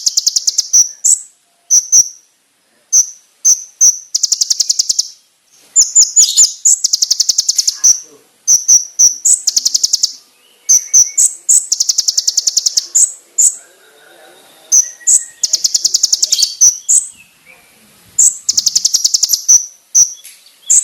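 Konin bird singing: sharp, high chip notes mixed with fast rattling trills of about a second each, six of them at intervals of a few seconds. These are the loud, clear 'shot' phrases used as a master song for training cage birds.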